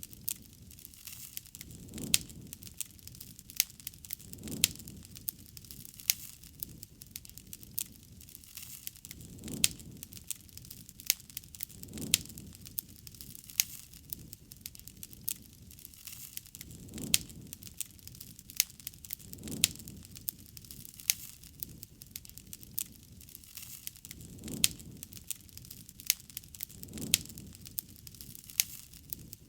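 Campfire crackling: a steady scatter of sharp pops and snaps from burning wood, with soft low swells of sound coming back every two to three seconds.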